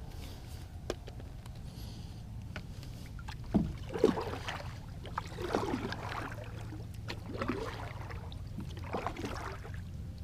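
Water splashing and sloshing around a small plastic kayak: five soft splashes come irregularly, one every second or two, starting about a third of the way in, over a steady low rumble.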